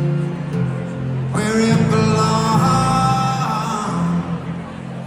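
Live band music from a concert performance, amplified through a venue sound system, with a fuller, brighter sustained passage coming in about a second and a half in.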